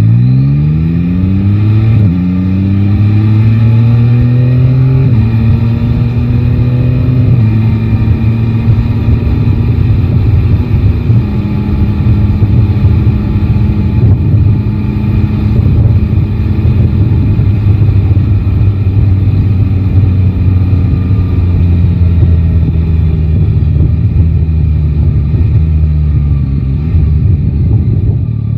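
Yamaha Tracer 9 GT's inline three-cylinder engine pulling away from low revs and accelerating through four upshifts, the pitch climbing and then dropping at each gear change. It then holds a steady cruise and slowly winds down in the last several seconds.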